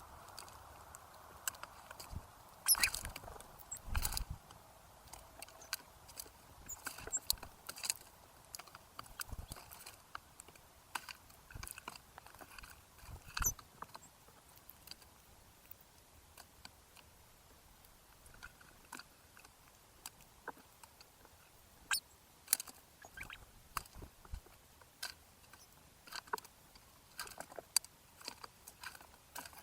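Birds pecking and cracking seed at a feeder close to the microphone: scattered sharp taps and crunches in irregular clusters, loudest a few seconds in.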